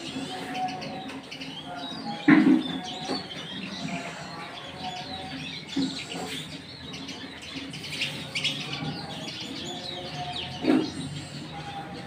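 Caged songbird chirping in repeated short clusters of high notes. Three louder sudden sounds break in about 2, 6 and 11 seconds in, the first the loudest.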